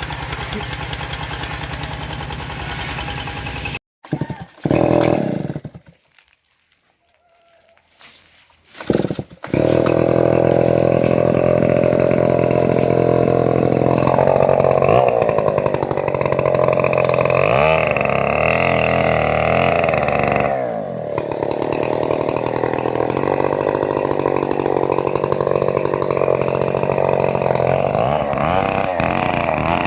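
Engine-driven homemade bandsaw running while sawing rain tree timber, a loud steady machine drone. It cuts out abruptly for a few seconds about four seconds in, then comes back; its pitch wavers for several seconds before it settles again.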